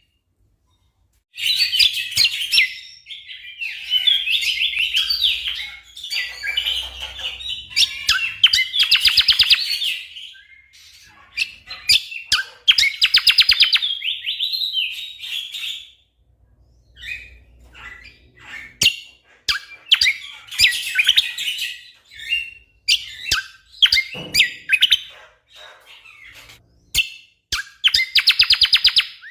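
Cucak kombo songbird singing in fast, dense bursts of chirps and rapid rattling trills, in phrases broken by short pauses. It starts after a brief silence.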